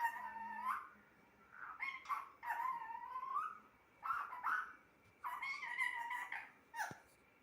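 Pet parrot calling and chattering in a string of about six short, pitched calls with pauses between them, the last one very brief.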